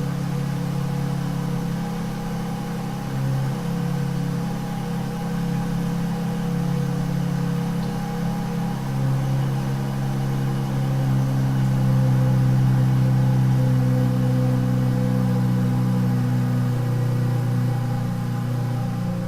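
2017 Dodge Charger SXT AWD's 3.6-litre V6 idling steadily through an exhaust with the muffler and resonator deleted and an electric cutout, a low steady drone. It grows a little louder past the middle.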